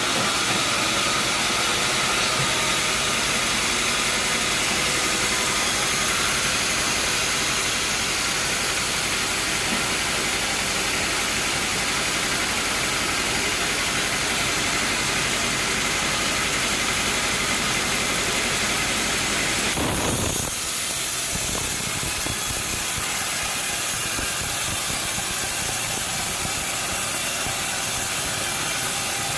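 Sawmill machinery running steadily: a dense, even hiss over engine noise. The sound shifts abruptly about two-thirds of the way through, then runs on steadily.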